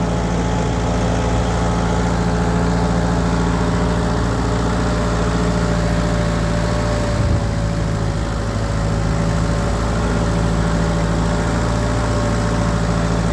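1948 Ford 8N tractor's four-cylinder gasoline engine running steadily at an even throttle as the tractor is driven along.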